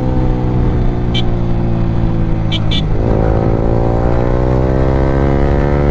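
Yamaha R15 V3's single-cylinder engine through an Akrapovic aftermarket exhaust, its note falling as the bike slows for about three seconds, then rising steadily as it accelerates again. Three short clicks sound in the first half.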